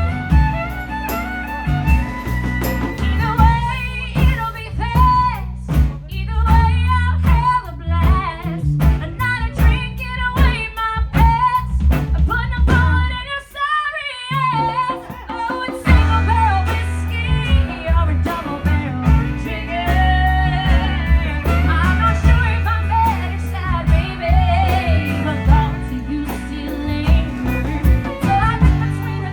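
Live rock band playing, with drums, bass and electric guitar under a wavering melody line. Partway through, the low end thins and nearly stops for a moment, then the full band comes back in.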